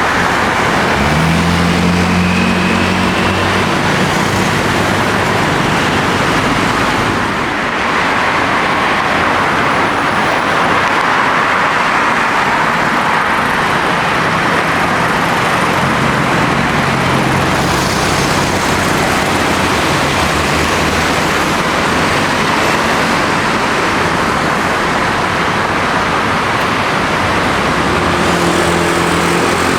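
Jet airliner engines running, a loud steady noise with a low hum beneath it at the start and near the end.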